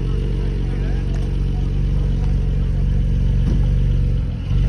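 A car engine running at a steady idle, a deep even rumble that briefly dips near the end.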